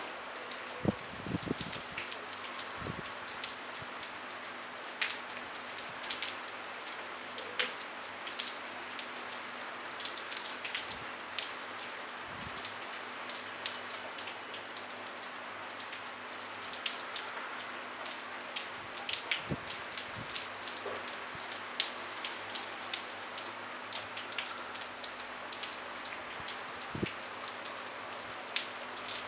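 Light rain falling steadily without thunder: an even soft hiss with scattered sharp taps of single drops striking close by.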